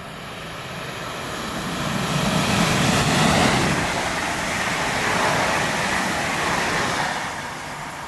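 London Overground electric multiple unit running past close by along the platform line, its rumble and hiss swelling to a peak about three seconds in and dying away after about seven seconds.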